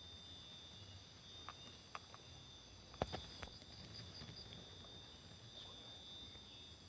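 Steady high chirring of insects, with a handful of sharp clicks and knocks between about one and a half and three and a half seconds in; the loudest comes about three seconds in.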